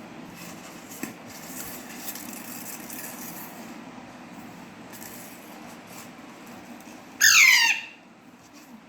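Young parrot giving one loud, harsh screech about seven seconds in, falling in pitch and lasting under a second, after a stretch of faint scuffling and light taps. The bird is agitated, taking on a bottle it treats as an enemy.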